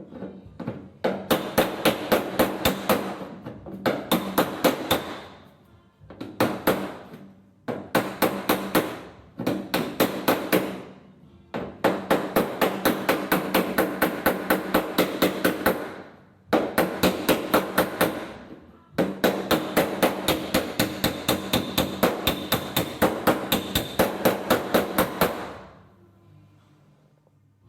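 Panel hammer striking the steel of a Torana's rear quarter panel over a dolly, in runs of quick, even strikes at about four a second with short pauses between runs, each strike ringing. The hammer-and-dolly work is smoothing a welded-in patch.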